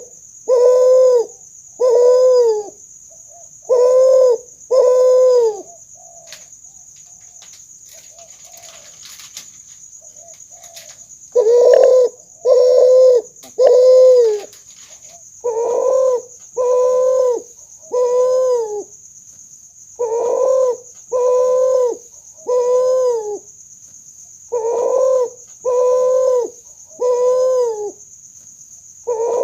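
Kuter, a hybrid of spotted dove and Barbary dove, cooing: drawn-out coos about a second apart, mostly in phrases of three with a short pause between phrases and a longer gap of several seconds early on. A steady high thin tone runs underneath.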